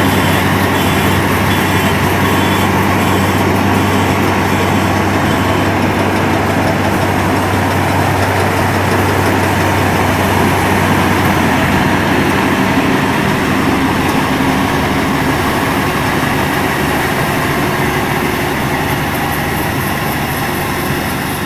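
Rice combine harvester running steadily, its low drone easing a little about halfway through.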